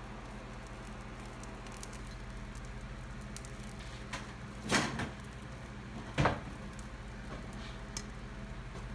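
Omelet frying in a non-stick pan, a soft steady sizzle with faint crackles. A nylon spatula bumps and scrapes against the pan twice, about four and a half and six seconds in.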